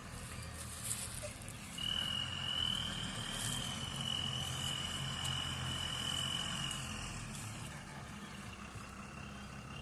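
JCB 3DX backhoe loader's diesel engine running steadily at a low hum, with a high steady whine joining about two seconds in and fading out about seven seconds in.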